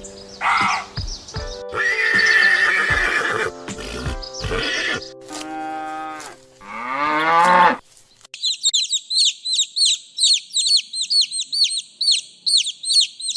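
Animal calls over background music, among them a gliding horse-like whinny about seven seconds in. After a brief gap, a rapid run of high, squeaky chirps, several a second, fills the rest.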